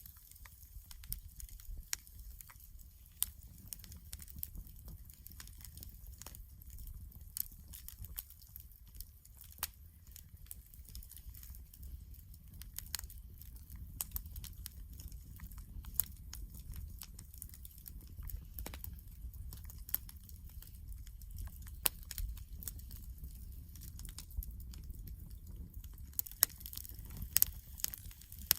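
Wood campfire crackling, with irregular sharp pops and snaps over a low rumble, and a cluster of louder pops near the end.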